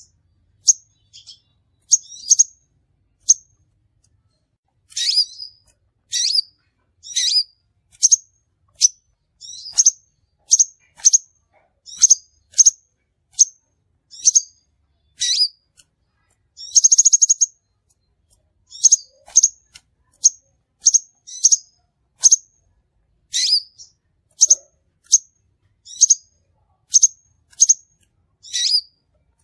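Crimson sunbird calling: a series of short, high, sharp chirps, about one or two a second, with one longer trilled note around the middle.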